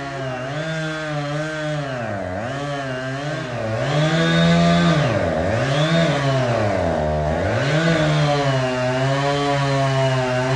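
Chainsaw engine running at high revs while cutting wood, its pitch dipping several times as the chain bogs down in the cut and climbing back each time. It gets louder about four seconds in.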